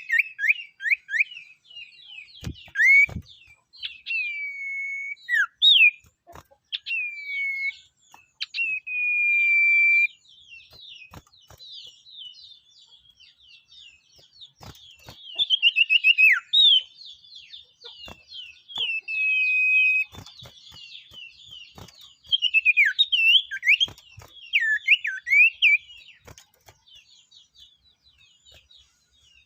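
A songbird of the kind Indonesian bird keepers call sirtu singing a varied whistled song: quick chattering runs mixed with long held whistles, some gliding down, in phrases with short gaps. A few soft clicks and two low knocks are heard about three seconds in.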